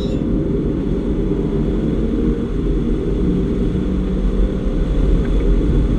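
In-cabin sound of a 2015 Porsche Boxster driven flat out: its flat-six engine pulls under load amid heavy road and wind noise, a steady low rumble with no break.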